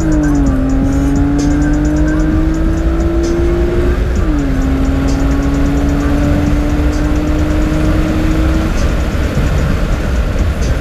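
Honda J30A5 3.0-litre V6, with ported heads and a 2.5-inch cat-back exhaust, pulling at full throttle through the gears. The revs drop with an upshift right at the start and again about four seconds in, then climb steadily each time, until the engine note fades under the noise near the end.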